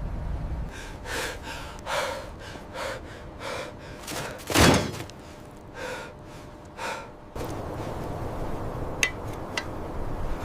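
A person breathing hard in a run of short gasping breaths, with one loud gasp about halfway. A steady rushing noise comes back after that, with two sharp clicks near the end.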